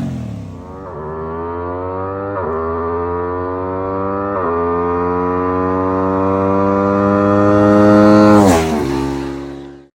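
Aprilia RS660 parallel-twin engine through a Zivv Project aftermarket exhaust, accelerating hard. Its pitch climbs with quick dips at upshifts about a second, two and a half and four and a half seconds in. It grows loudest as the bike passes close, drops sharply in pitch and fades away before cutting out.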